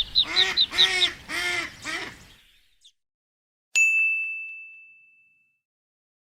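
Ducks calling: four nasal quacks over a fast run of high peeping, fading out after about two seconds. About a second later comes a single bright bell-like ding that rings and dies away.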